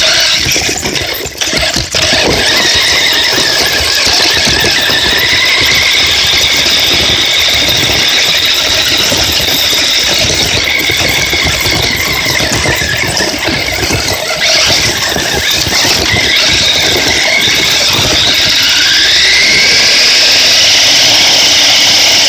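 Radio-controlled monster trucks driving hard, their motors giving a high whine that rises and falls with the throttle over the rough noise of tyres and chassis, climbing strongly near the end.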